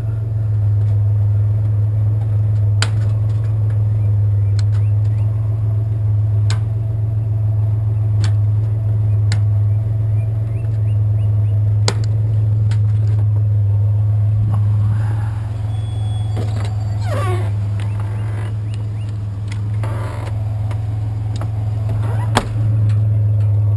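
Vehicle engine idling steadily, with a sharp click every few seconds and some scraping and rattling of handled scrap about two-thirds of the way through.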